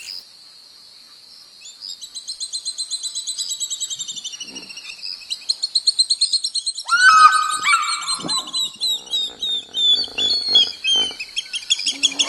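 Wild birds singing: fast trills of rapidly repeated high notes, joined about seven seconds in by louder, lower whistled calls. A steady high insect drone runs beneath them for the first half.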